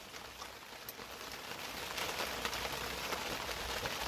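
Heavy rain falling steadily, an even hiss of many fine drops that grows a little louder about halfway through.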